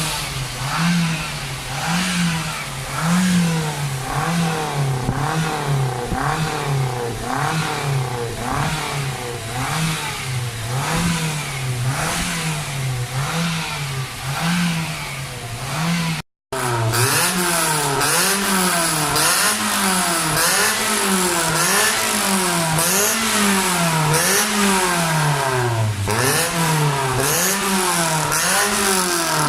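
Perodua Myvi's exhaust through an aftermarket twin-pipe muffler, the engine revved in repeated quick throttle blips about once a second, each note rising and falling. After a brief cut about 16 seconds in, the blips continue more closely spaced, and the revs drop away near the end.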